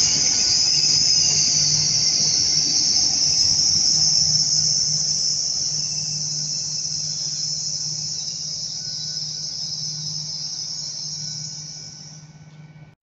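Hitachi Intercity Express Train moving off and drawing away: a strong, steady high-pitched hiss over a low hum, both fading out as the train recedes.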